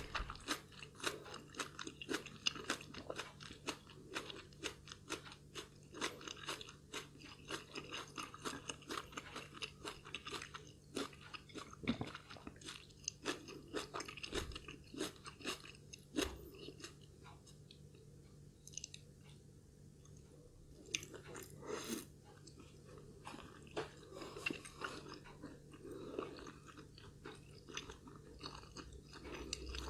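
Close-miked eating sounds: a person chewing and biting food in a rapid run of crisp, wet clicks and crunches, which thin out for a few seconds around the middle before picking up again.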